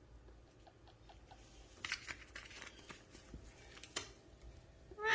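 A parrot chewing and nibbling with its beak: faint clicks, scrapes and crunches, with sharper crunches about two seconds in and again near four seconds. A short rising squawk starts right at the end.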